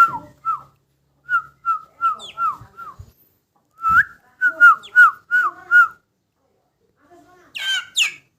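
Aseel chicks peeping: runs of short, clear calls that fall in pitch, about two or three a second, in several groups. A harsher, rougher call comes near the end.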